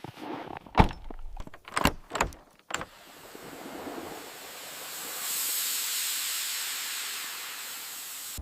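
A few sharp knocks in the first three seconds, then a steady hiss that swells and holds.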